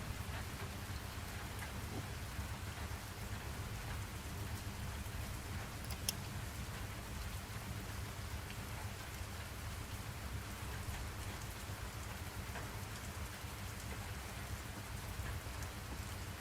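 Steady rain falling, an even hiss with a low rumble underneath and scattered drop ticks. A single sharper click sounds about six seconds in.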